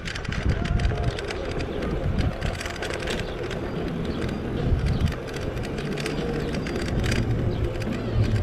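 E-bike being ridden: a steady low rumble of tyres on pavement with frequent small clicks and rattles from the bike.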